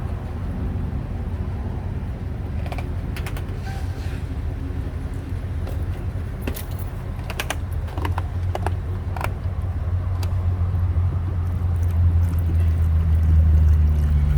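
Engine running with a steady low rumble that grows louder in the last few seconds, with a few light clicks and taps over the middle seconds.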